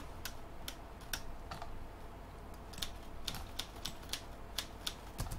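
Scattered single clicks of a computer keyboard and mouse, roughly one or two a second, over a faint steady low hum.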